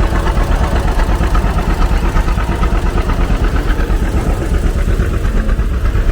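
John Deere 630 tractor's two-cylinder engine running steadily as it drives past, with an even pulsing beat.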